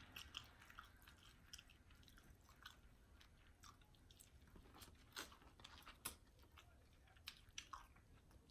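Faint, close-up eating sounds of seafood being chewed: soft wet chewing and smacking with irregular sharp clicks, a couple of them louder a little past the middle.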